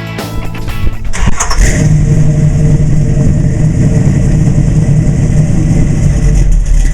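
The 1972 Chevrolet Nova SS's 350 V8 is started: a brief crank about a second in, then it catches and settles into a steady idle.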